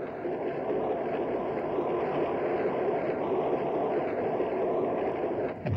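Steady rushing noise of a Class 46 diesel locomotive and its coaches running at about 100 mph, picked up by a camera on the front of the locomotive: wind and wheels on rail, with no distinct engine note. The noise dips briefly near the end.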